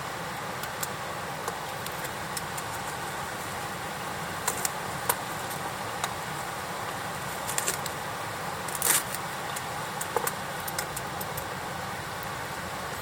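Campfire wood crackling, with irregular sharp pops scattered over a steady hiss, the loudest pop about nine seconds in.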